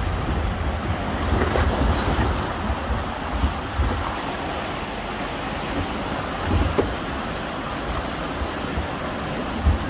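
Amusement-park passenger train running along the track: a steady rumble and rattle, with uneven low buffeting and a few faint knocks.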